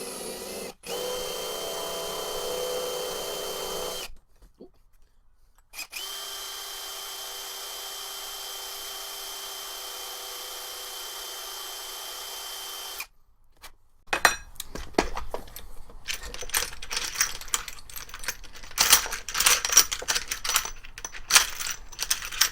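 Electric drill running at a steady speed in two runs, about three seconds and then about seven seconds, drilling out a broken-off screw. It is followed by several seconds of clattering small metal parts.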